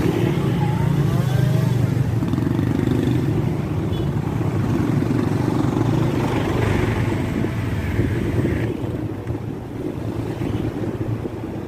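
Road traffic with motorcycle engines running, a steady low rumble that thins out near the end.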